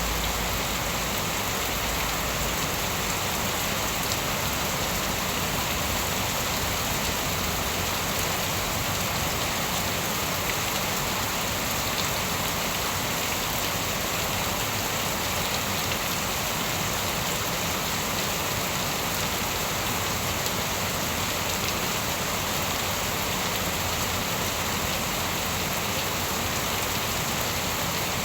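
Steady rain falling: an even, unbroken hiss of many drops landing on a surface.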